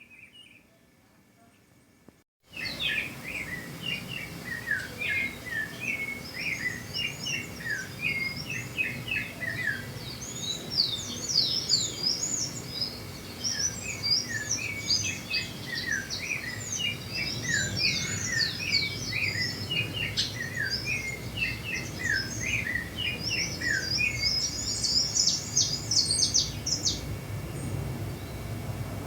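Many small birds chirping and calling over one another in a dense, continuous chorus that starts suddenly about two seconds in, over a steady low background rumble.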